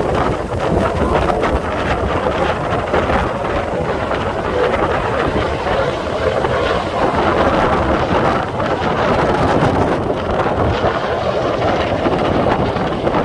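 Strong wind buffeting the microphone in a steady rush, over the distant drone of racing offshore powerboats.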